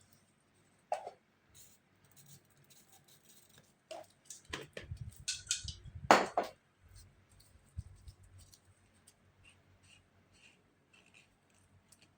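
Hand-work noises: scattered clicks, taps and scrapes, with a cluster of louder scrapes and knocks in the middle, the loudest about six seconds in.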